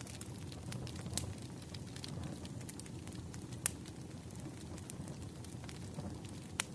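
Firewood burning: a steady low rumble of flames with scattered sharp crackles and pops, two of them louder, about halfway through and near the end.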